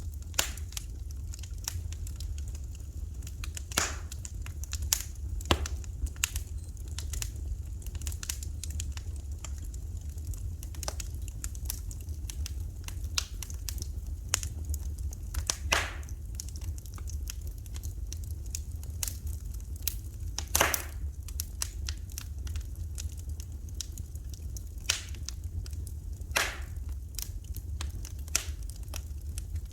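Fire in a fireplace crackling, with irregular sharp pops, a few of them much louder, over a steady low rumble.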